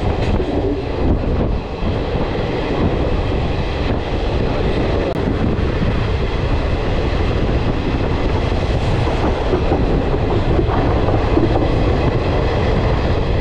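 Passenger train running along the track, heard from its open doorway: a steady rumble of wheels on rails and the rattle of the carriages.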